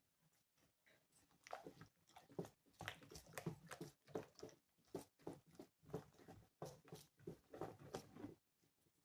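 Faint, irregular scraping and clicking of a utensil stirring thick pancake batter in a bowl, several strokes a second, starting about a second and a half in.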